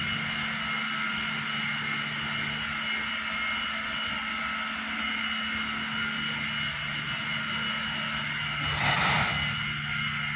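A steady mechanical hum with several constant tones, and a brief whoosh about nine seconds in.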